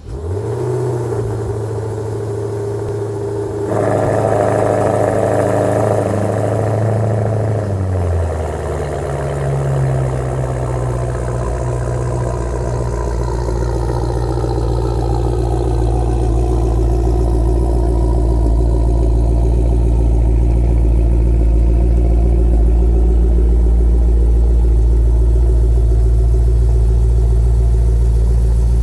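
Maserati Quattroporte GTS twin-turbo V8 cold-starting and catching at once into a loud fast idle, which gets louder about four seconds in. Around eight seconds in the idle drops, and it settles into a lower, steady warm-up idle.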